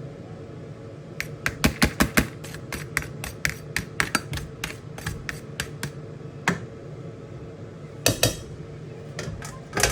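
Metal spoon knocking and clinking against a cooking pot while rice is spread out, a quick run of taps for a few seconds, then a few scattered knocks and a short scrape near the end.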